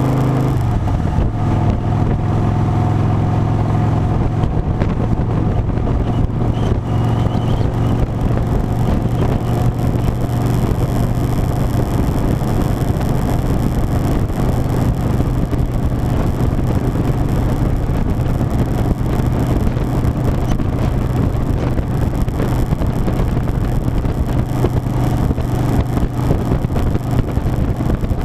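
Harley-Davidson Softail Standard V-twin engine running steadily at road speed, mixed with a steady rush of wind noise.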